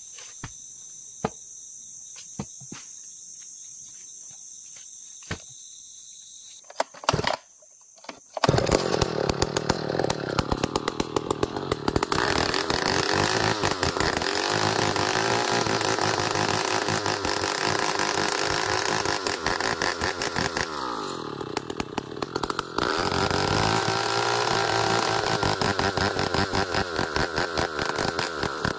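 Steady high insect chirring with a few sharp clicks, then about a third of the way in a two-stroke chainsaw comes in at full speed, sawing ulin ironwood lengthwise into beams. Its pitch sags for a couple of seconds about two-thirds of the way through, then rises again.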